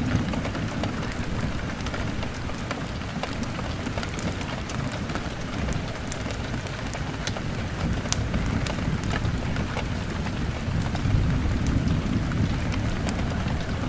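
Steady rain pattering on a window glass, over a deep low rumble that swells and fades. Scattered sharp crackles and pops from a burning wood fire run throughout.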